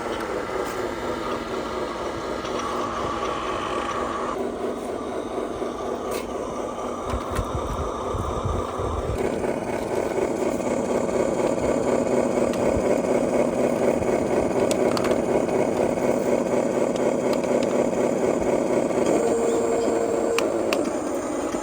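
Electric motors and gearboxes of radio-controlled construction models whining steadily, shifting in pitch several times. There are low thuds about seven to nine seconds in, and the whine grows louder from about ten seconds.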